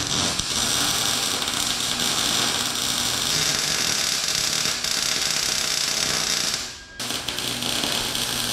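A power tool running steadily with a loud hiss. It stops briefly about seven seconds in and starts again.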